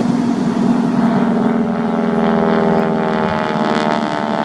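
Propeller-driven aircraft flying at an air show, its engine giving a steady, loud drone.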